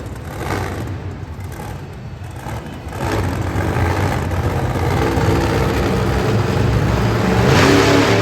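Monster truck engine running and revving in an arena, a deep rumble that gets louder about three seconds in and peaks near the end.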